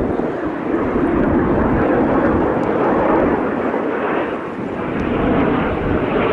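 Jet noise from Blue Impulse Kawasaki T-4 jet trainers' turbofan engines: a loud, steady rush that swells slightly near the end.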